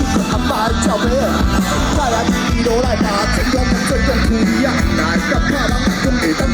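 Rock band playing live, loud and dense, with a bending melodic lead over a heavy low-end beat.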